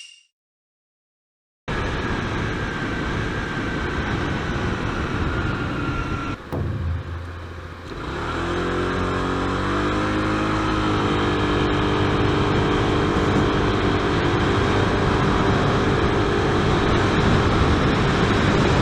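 Honda PCX 125 scooter's single-cylinder engine and riding noise. After a brief silent gap, the sound runs and then falls away to a low idle note. About eight seconds in, the scooter pulls away hard: the engine note rises for about three seconds, then holds steady at full throttle.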